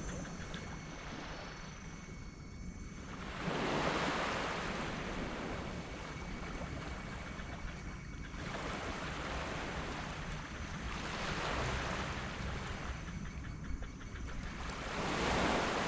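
Small sea waves breaking and washing up a sandy beach, one wash every four seconds or so, the loudest near the end, over a steady low rumble.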